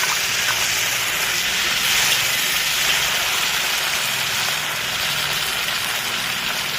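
Chopped onions sizzling steadily in hot oil in a pan.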